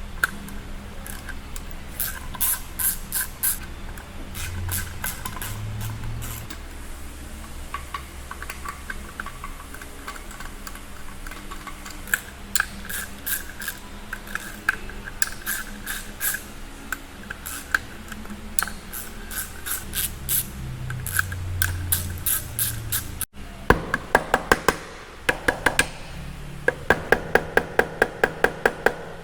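Hand tools working on a BMW S1000RR motorcycle engine: runs of quick, evenly spaced metallic clicks, like a ratchet wrench turning bolts, in short bursts. The clicking gets louder and more regular near the end.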